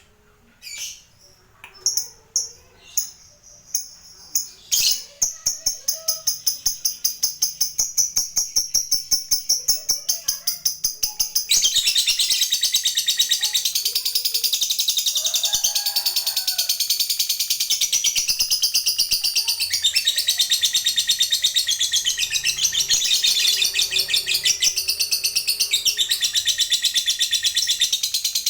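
Lovebird giving a few sharp single chirps, then breaking into a long, rapid chattering trill (ngekek) about five seconds in, which turns louder and denser around twelve seconds in.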